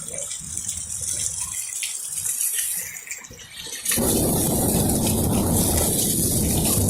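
Thunderstorm rain with a low rumble for the first few seconds. About four seconds in, the rain noise jumps suddenly to a loud, steady rush.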